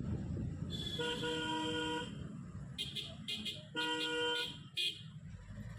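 A vehicle horn sounds twice in long steady honks, each under about a second and a half, over a low background rumble, with a few short sharp sounds between the honks.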